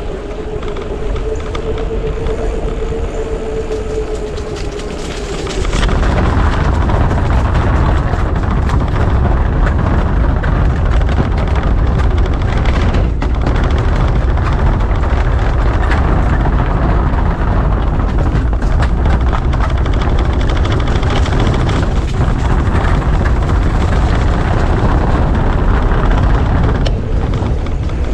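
Wind rushing over the camera microphone while cycling. A steady hum sits under it for the first five seconds, then the wind turns louder and rumbling about six seconds in.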